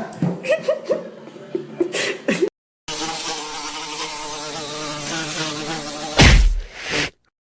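A steady, slightly wavering buzz lasting about three seconds, ending in a loud thump. Before it come brief short pitched sounds.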